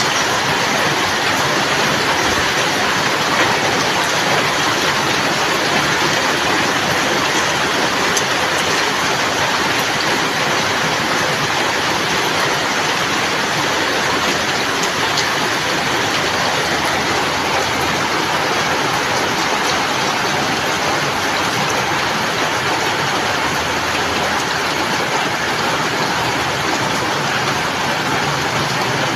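Steady, heavy rainfall: an even, unbroken hiss of many raindrops with no letup.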